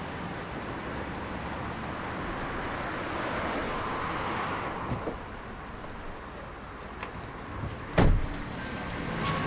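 A vehicle's steady running noise, with a single sharp thump about eight seconds in.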